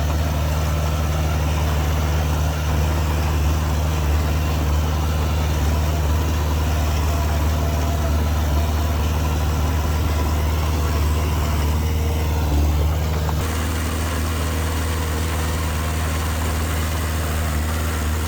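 Heavy diesel engine of earthmoving machinery running steadily at low revs, a deep even hum. About thirteen seconds in the sound changes abruptly and becomes slightly quieter.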